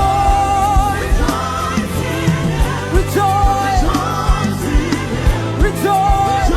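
Live African gospel praise music: a band plays a steady drum beat and bass under long, slightly wavering held sung notes.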